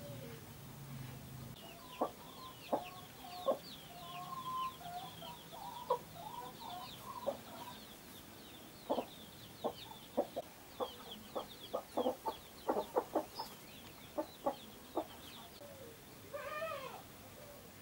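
Bird calls: a string of short, sharp calls that come faster in the middle, over steady high-pitched chirping, with one longer call near the end.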